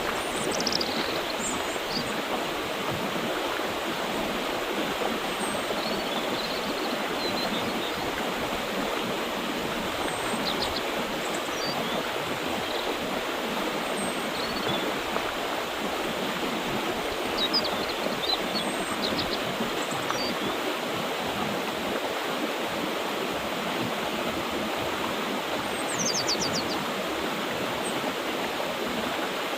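A mountain river running with a steady, even rush of water. Small birds chirp and trill faintly above it now and then.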